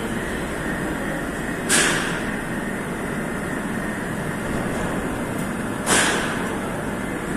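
Moscow Metro train at a station platform: a steady rumbling noise broken by two sudden sharp hisses about four seconds apart.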